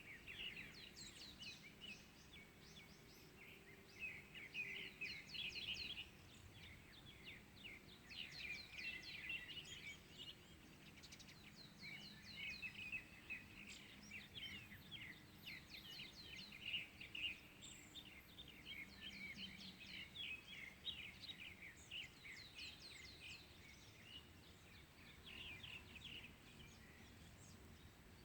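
Faint chorus of small songbirds chirping and singing in rapid, overlapping runs of short notes, with brief lulls.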